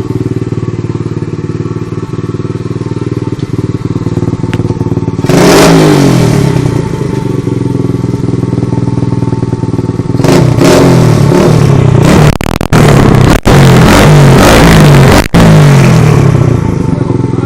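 A 125 cc dirt bike engine idling, then revved once about five seconds in and blipped repeatedly in quick succession from about ten seconds in, each rev rising and falling in pitch. The revs are loud enough to overload the recording, with brief dropouts.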